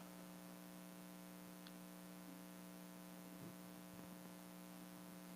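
Near silence in a pause of speech: only a steady low electrical hum from the recording or sound system.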